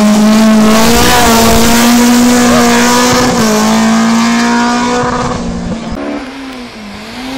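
Rally car engine held at high revs, loud and steady for about five seconds, with tyre noise. Near the end it drops in level and the revs rise and fall.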